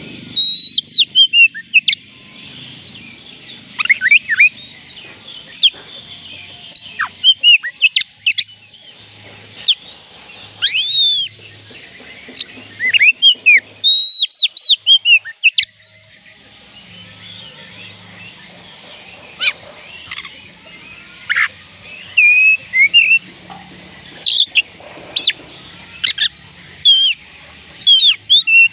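Oriental magpie robin singing: a loud, varied run of whistled notes and quick rising and falling chirps, delivered in phrases separated by short pauses.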